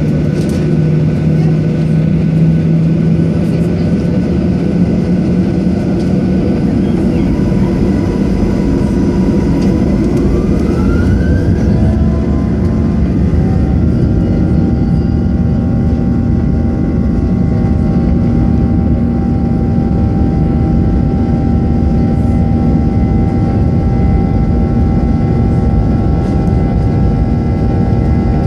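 Boeing 737-800's CFM56 jet engines heard from the cabin, running steadily and then spooling up about ten seconds in with a whine rising in pitch. They then hold a steady, higher pitch at takeoff thrust.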